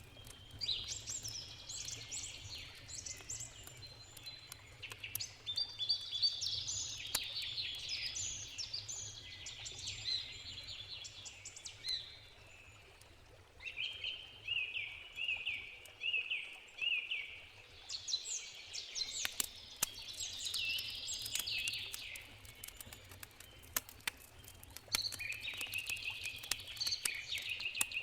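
Songbirds singing in phrases of quick chirps, with a run of repeated notes midway, over sharp crackles of a wood campfire and a steady low rumble of a river.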